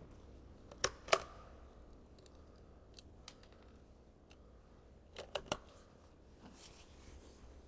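Sharp metallic clicks from handling the .22 LR rifle between shots: two clicks about a second in, then a quick run of three clicks around five seconds in.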